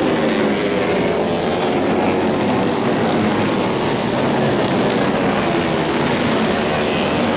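Several racing motorcycles running at high revs together, their engine notes overlapping and staying loud and steady.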